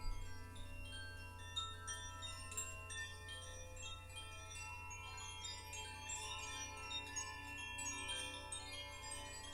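Chimes ringing in a continuous shimmer of many overlapping, bright tinkling notes, over a steady low hum.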